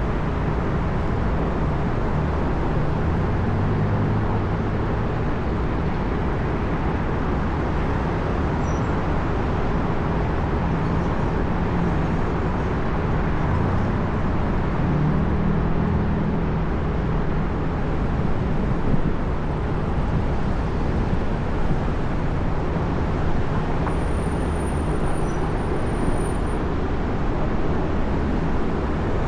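Steady downtown street traffic: a continuous noise of passing vehicles, with a low engine rumble that swells slightly now and then.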